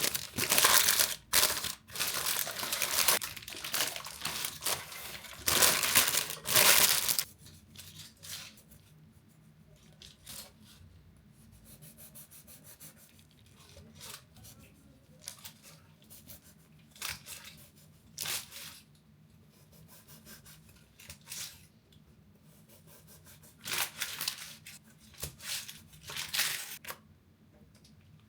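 Crinkling and tearing noise of something being handled: a long stretch at the start lasting several seconds and a shorter one near the end, with scattered light clicks and knocks between.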